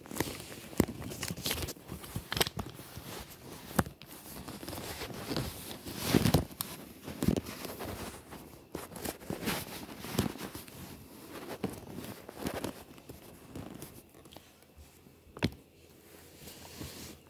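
Handling noise close to the microphone: irregular rustling, clicks and knocks as things are moved about by hand, with a heavier knock about six seconds in and a sharp click near the end.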